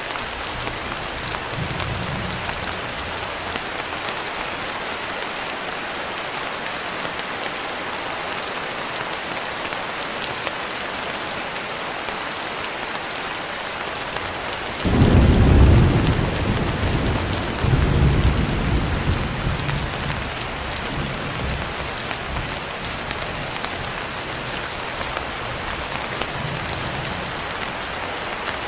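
Steady heavy rain hissing, with a rumble of thunder that breaks in suddenly about halfway through, swells again a few seconds later and rolls away.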